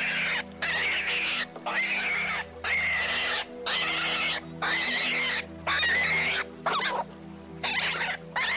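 A wild animal giving a long run of harsh, high calls, each under a second, with short gaps between them, over steady background music.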